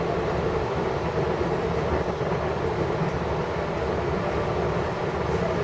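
Long Island Rail Road passenger train running at speed, heard from inside the car: a steady rumble of the wheels on the track.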